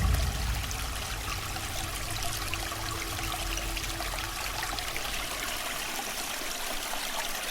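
Steady rushing, water-like noise like a flowing stream, with a single held low note that dies away about halfway through.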